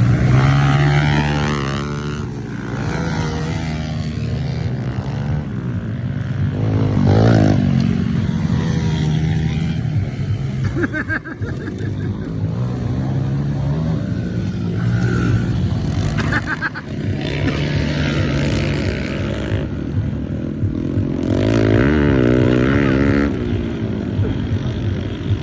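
Several motocross bikes running on a track, their engines revving up and down repeatedly and overlapping.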